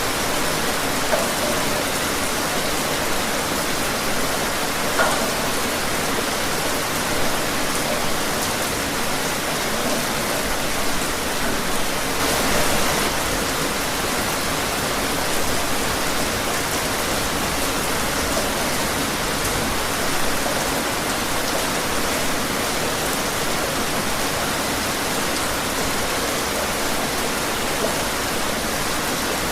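Steady rain falling and pattering on surfaces, an even hiss with small scattered spikes from individual drops.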